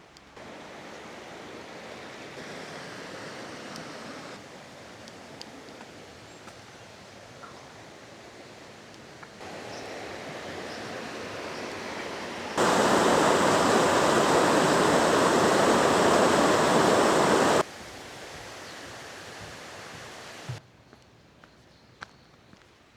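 Waterfall water rushing, a steady roar heard in several abruptly cut stretches of different loudness, the loudest lasting about five seconds in the middle.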